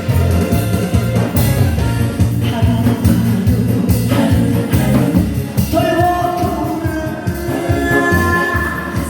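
Amplified singing of a requested song over a loud backing track, with a steady, heavy beat throughout and held melody notes coming forward about six seconds in.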